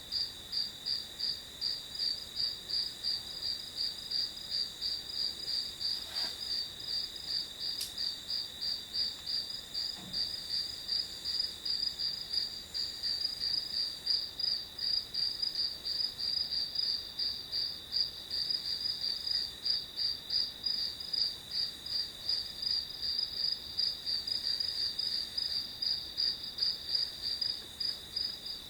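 Crickets chirping in a steady, regular rhythm of about three chirps a second, a high-pitched continuous trill.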